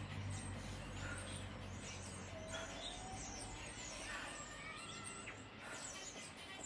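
Birds chirping faintly, short high chirps scattered throughout, over a low hum that fades out about three seconds in.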